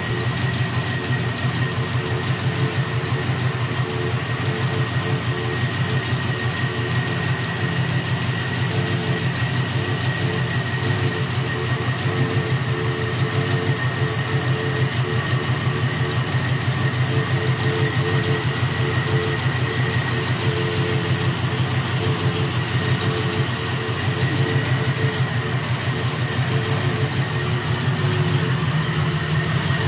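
A 1968 Chevrolet Camaro's engine idling steadily, with a faint steady high whine running along with it.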